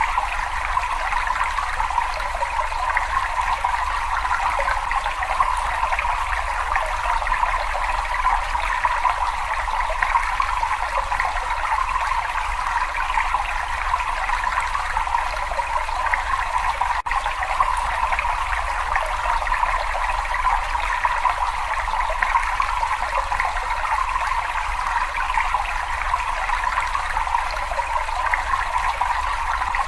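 Water trickling and running steadily in a cave, an even splashing hiss that carries on without change.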